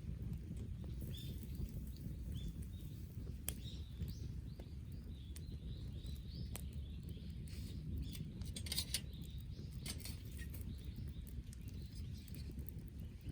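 Wood campfire crackling with a few sharp pops, the busiest cluster about nine seconds in, over a steady low rumble. Small birds chirp repeatedly in the background.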